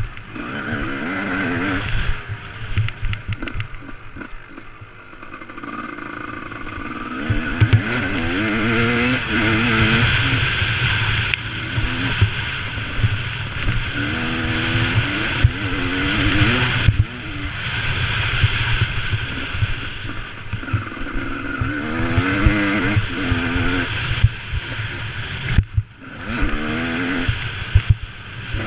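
Motocross bike engine revving up and easing off again and again, its pitch climbing in repeated sweeps as it accelerates, over a steady rushing noise.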